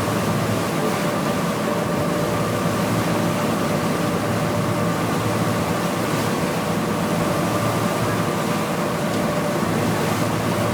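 Steady motor drone with a rushing noise and a few held tones.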